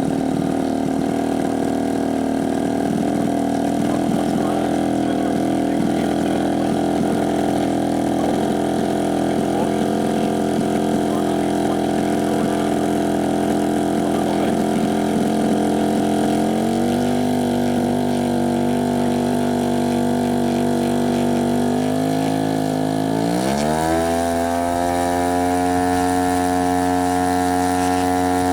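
Desert Aircraft DA-85 two-stroke gasoline engine on a scale Stearman PT-17 model running steadily. Its pitch drops a little past the middle, dips once more, then the throttle is opened and it settles at a higher, steady speed near the end.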